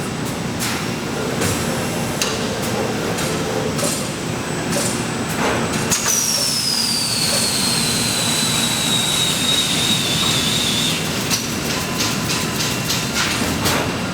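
Factory machinery running steadily with scattered clicks and knocks. About halfway through, a high whine starts, falls slowly in pitch for several seconds, then stops.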